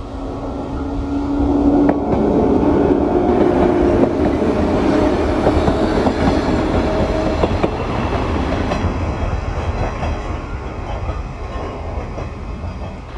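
Shinano Railway 115 series electric train passing close by, its wheels clicking over the rail joints. The sound builds to a peak over the first couple of seconds, then fades as the train pulls away.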